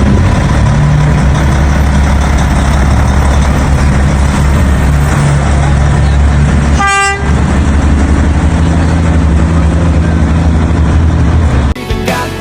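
Peterbilt semi truck's diesel engine running loudly and steadily, with one short horn toot about seven seconds in. Music cuts in just before the end.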